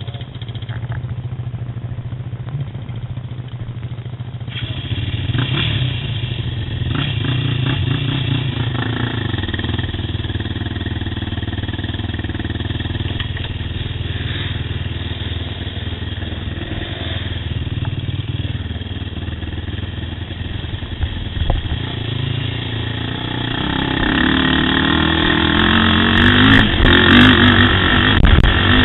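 ATV engine running continuously while riding a trail, its pitch and loudness shifting with the throttle. It gets louder about four seconds in and again near the end as the throttle opens up.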